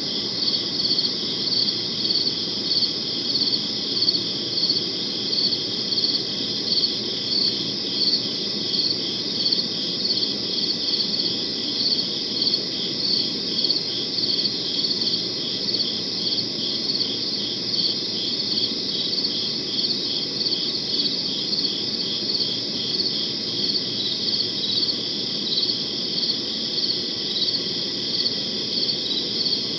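Crickets chirping in a steady, even rhythm of high pulses, over a low, steady background noise.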